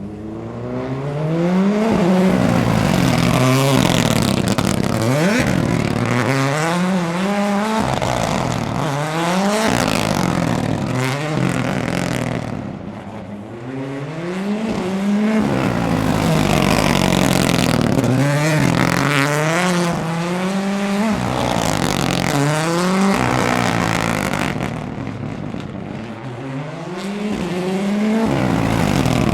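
Ford Puma Rally1's 1.6-litre turbocharged four-cylinder rally engine revving, its pitch rising and falling back again and again.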